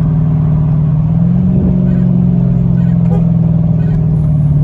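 Straight-piped Dodge Challenger's exhaust droning steadily under way, its pitch stepping up slightly about a second in and then holding.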